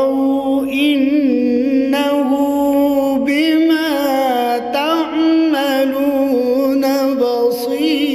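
A male reciter chanting Quran recitation (tilawa) in maqam Nahawand, holding long, ornamented melismatic notes that waver up and down in pitch.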